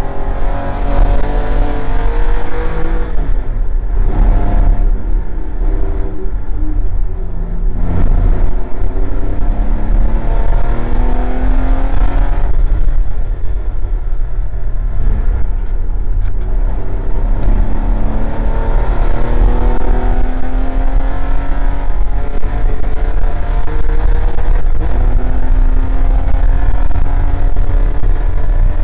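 Porsche 911 (964) race car's air-cooled flat-six heard from the cockpit under hard acceleration, its pitch climbing again and again and breaking off several times at gear changes and lifts.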